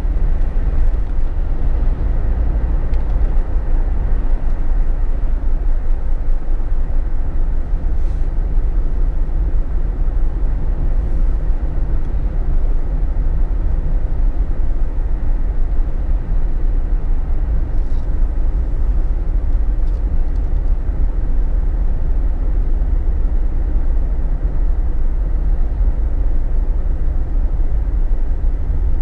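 Inside the cabin of a Jeep Wrangler JK while driving: a steady, deep road and engine rumble with a haze of tyre and wind noise. A few faint ticks come through it.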